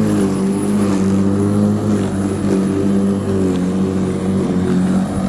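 Black & Decker 1800 W electric rotary lawnmower running steadily with a high motor whine. Its pitch dips slightly just after the start, as if it takes load.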